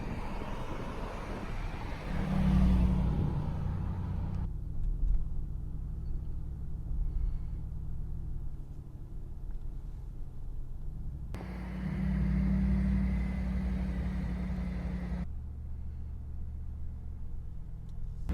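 Mercedes-AMG G63's twin-turbo V8 under way, a steady low rumble with two louder spells of acceleration of a few seconds each, about two seconds in and again about eleven seconds in.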